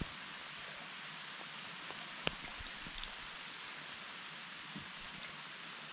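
Steady rain falling, an even hiss with scattered raindrop ticks and one sharper click about two seconds in.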